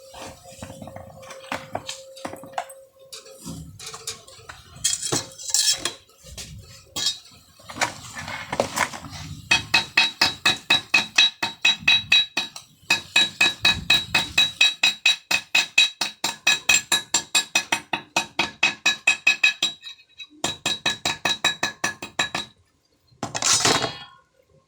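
Steel being struck rapidly and repeatedly with a hammer, about five ringing blows a second, in long runs with short breaks, after a few scattered knocks.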